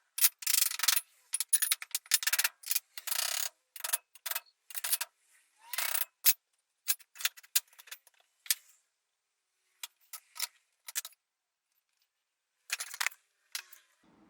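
Workshop hand work on parts: a run of short scraping and rubbing strokes, one after another with silent gaps, thinning out to a few isolated strokes after about eight seconds.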